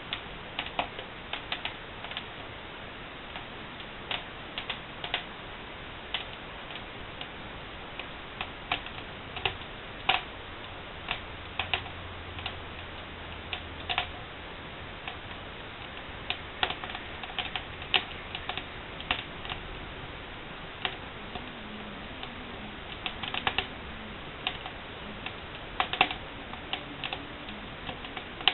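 Wood fire burning in a barbecue fireplace, crackling with irregular sharp pops over a steady hiss, a few pops louder than the rest.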